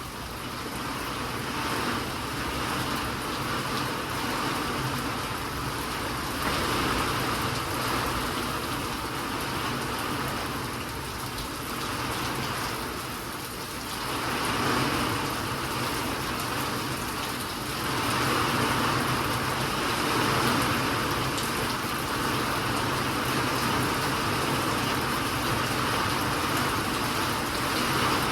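Steady rainfall, a continuous hiss that swells and eases every few seconds, over a faint steady low hum.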